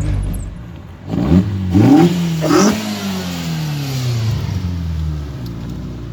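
Classic Mini's engine accelerating hard, its pitch climbing in quick rises through the gears, then slowly falling as it eases off.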